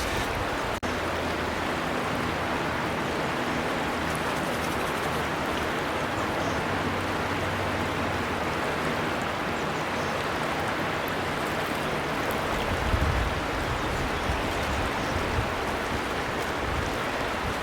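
River water flowing steadily, an even rushing. The sound cuts out for an instant about a second in, and a low rumble joins in the last few seconds.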